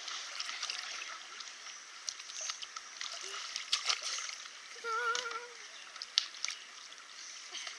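Kayak paddles dipping and splashing in river water, with scattered drips and splashes over a steady sound of moving water.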